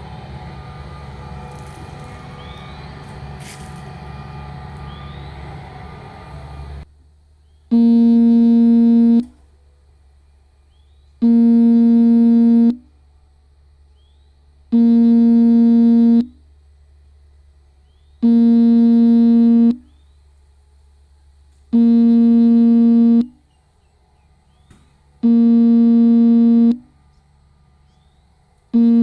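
Steady engine rumble, plausibly the Hitachi excavator at work, that cuts off suddenly about seven seconds in. Then a loud buzzing electronic tone sounds, each held steady for about a second and a half and repeating every three and a half seconds, with a faint low hum between the tones.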